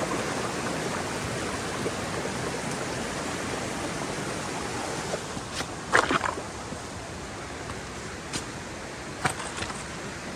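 South Fork Sauk River rushing steadily. A few sharp knocks break in, the loudest about six seconds in and two smaller ones near the end.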